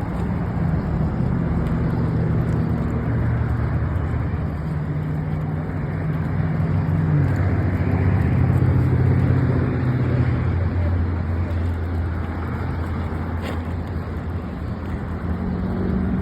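A motor vehicle's engine humming steadily, its pitch stepping up and down a few times, over a low rushing noise.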